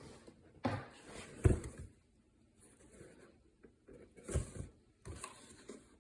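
Several knocks and rustles from handling a boxed table fan, the loudest about a second and a half in.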